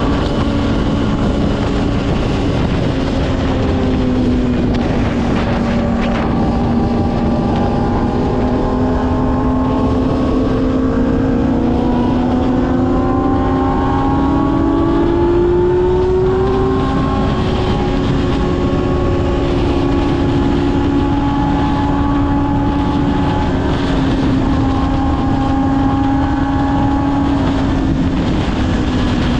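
Kawasaki ZX-6R inline-four engine running on the move, with wind rushing over the microphone. A little past the middle the revs climb for a few seconds, then drop back.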